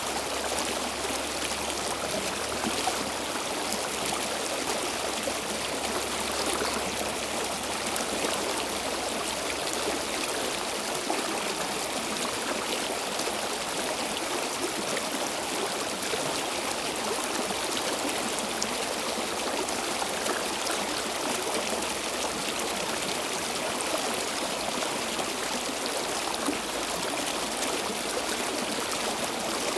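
A flowing stream: water running and trickling steadily over rocks, a continuous rushing with small splashes.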